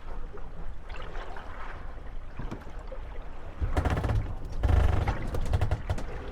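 Moored wooden gondolas rocking on lapping water, knocking and creaking against each other as the waves push them together. A louder, busier run of knocks and water sloshing comes a little past halfway.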